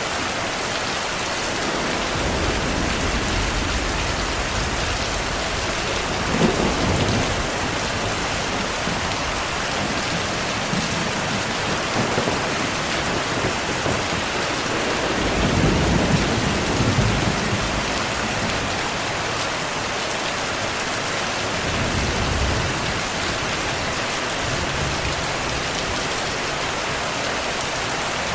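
Steady heavy rain with thunder rumbling several times, the strongest rumble about halfway through.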